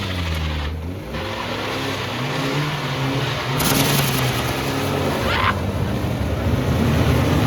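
Car engine revving, its pitch going up and down. About halfway through, a loud, harsh rushing noise joins it and the engine gets louder.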